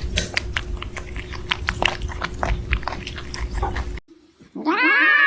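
About four seconds of rapid, irregular crunching clicks over a steady hum. After a cut, a cat starts a long, loud meow that rises in pitch, about four and a half seconds in.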